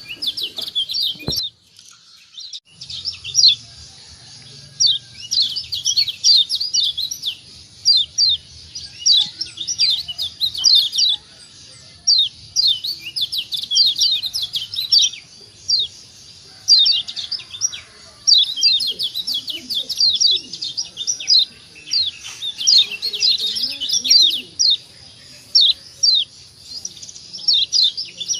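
Lombok yellow white-eye (kecial kuning) singing: rapid runs of quick, high, downward-sweeping chirps in bursts of one to three seconds, repeated with short pauses. A single thump and a brief break come about a second and a half in, and a faint steady high tone runs underneath from about three seconds in.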